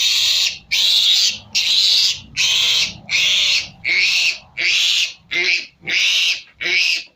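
A three-day-old piglet squealing loudly, about ten high screams in a steady rhythm, while it is held down for its iron injection.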